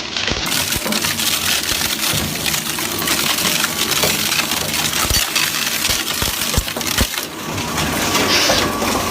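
Industrial shredder crushing and tearing material between its cutters: a loud, continuous grinding din broken by frequent sharp cracks and snaps.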